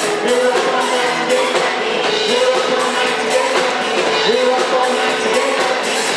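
Live pop band playing with a singer, over a steady drum and cymbal beat.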